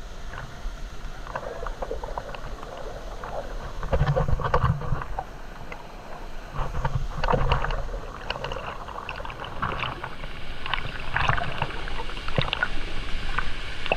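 Water splashing and sloshing in irregular surges, with scattered knocks and rattles, as a stream is crossed.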